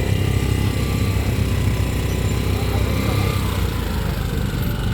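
Small boat engine running steadily with a fast, even low pulse.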